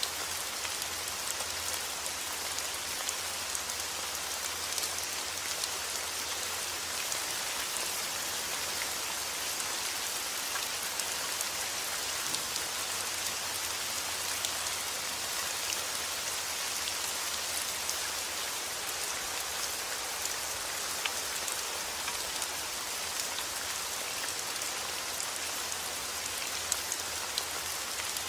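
Heavy rain falling steadily, a dense hiss of drops with many small ticks of individual drops hitting surfaces.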